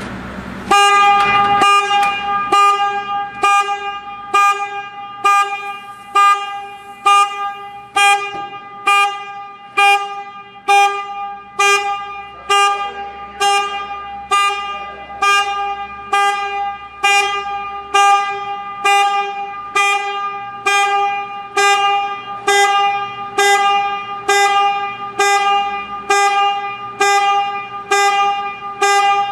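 A car alarm honking the vehicle's horn in even, repeated honks about once a second, the first few loudest. A faint low hum runs underneath.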